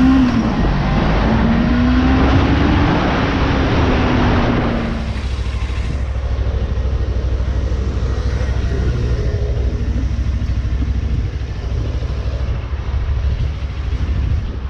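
Suzuki GSX250R's parallel-twin engine revving up and then easing off over the first five seconds, under wind and road noise. After that come a steady low rumble of wind and road noise while riding, with the engine fainter.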